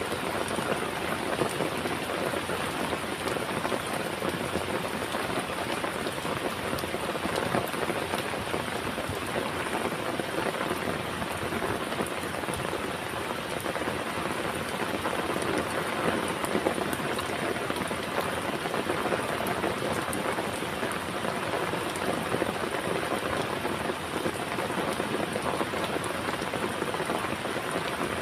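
Steady heavy rain, a dense even patter of raindrops striking a surface.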